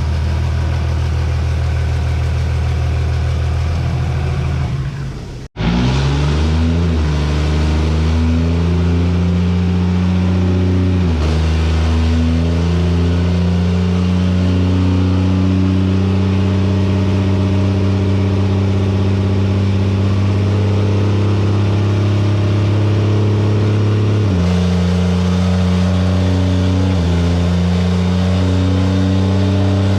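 Cummins diesel engine of a drag truck running on a chassis dyno. It runs steadily, cuts off abruptly about five seconds in, then climbs in pitch in steps and holds at high revs, dropping in pitch briefly twice.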